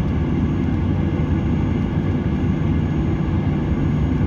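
Steady airliner cabin noise: the low, even rumble of the jet engines and airflow heard from inside the passenger cabin.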